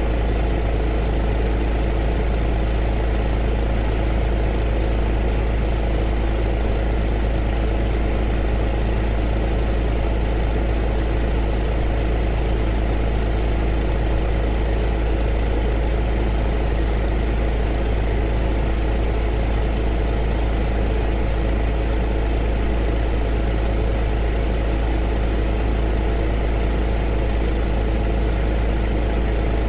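Heater running steadily: a constant deep hum with a few steady tones in it and an even rushing noise above.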